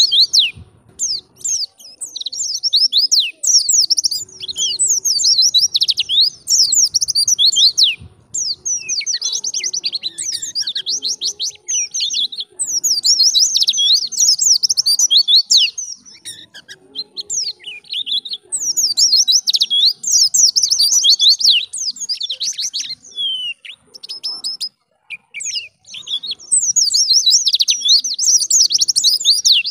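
White-eye (pleci) singing: fast, high-pitched twittering and trilling in phrases several seconds long, with short breaks between them.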